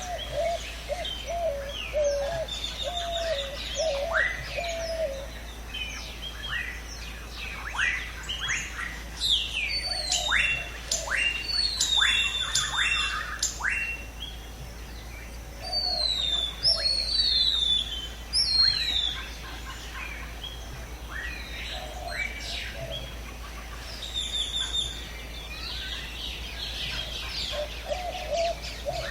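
Chorus of several wild birds calling at once: sharp, downward-sweeping whistled notes and chirps, busiest in the middle, over a lower wavering call repeated in short runs.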